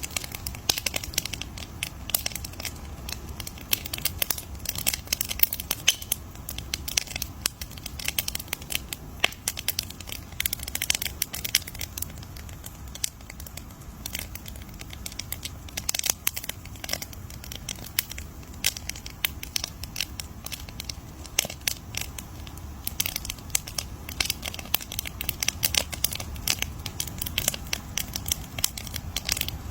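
Wood fire crackling: dense, irregular sharp pops and snaps over a low steady rumble, coming in busier spells and thinning out around the middle.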